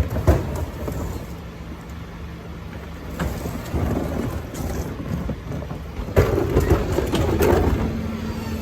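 Garbage truck at work: its engine runs low and steady under knocks near the start and bursts of clattering, rushing noise, the loudest starting about six seconds in.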